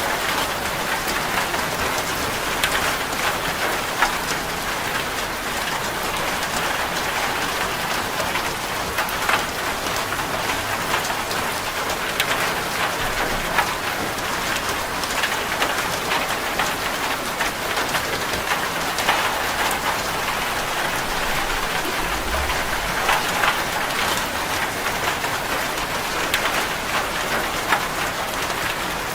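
Rain drumming steadily on a corrugated zinc roof, a continuous hiss dotted with sharp individual drop impacts.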